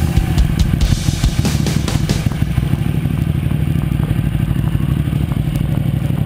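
Ducati Panigale's L-twin engine idling in neutral as the bike rolls to a stop, a steady pulsing idle with a few light clicks in the first two seconds.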